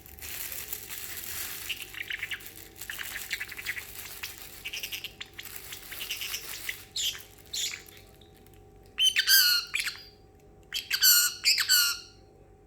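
Pet parrotlet making a hissing, water-like noise with chattering for the first several seconds, then letting out loud squawking calls twice near the end.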